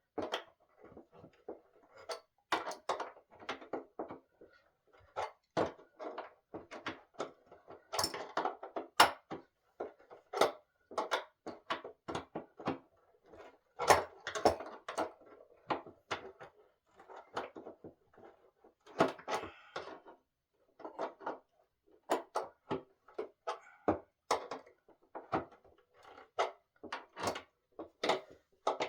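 Irregular knocks, taps and clatter of wooden furniture parts and tools being handled during the assembly of a solid-wood dining table, with a few louder thunks.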